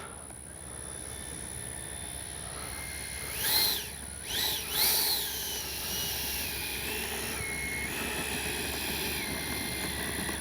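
The 80mm 12-blade electric ducted fan of an RC jet whining at taxi throttle, blipped up and down three times in quick succession a few seconds in, then settling to a lower whine that steps down in pitch.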